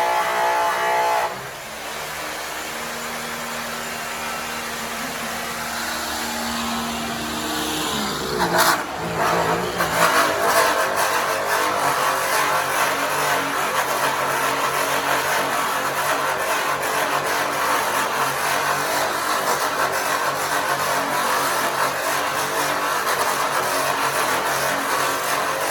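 Electric angle-grinder polisher with an airway buff cutting an aluminum truck wheel with compound. The motor's whine drops in pitch about a second in as the buff bears down on the metal. From about ten seconds in it runs steadily with a louder, rougher whir.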